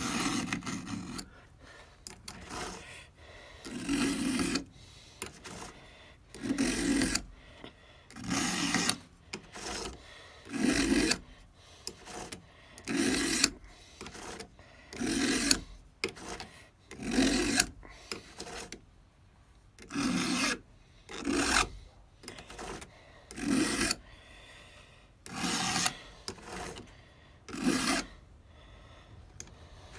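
Flat file scraping across the depth gauges (rakers) of a Stihl 200T's chain, one stroke about every two seconds with short pauses between as the file moves from one raker to the next.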